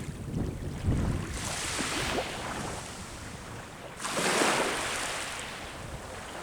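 Sea waves breaking and washing up the shore, two surges hissing in about a second and four seconds in, each fading away. Gusts of wind rumble on the microphone at the start.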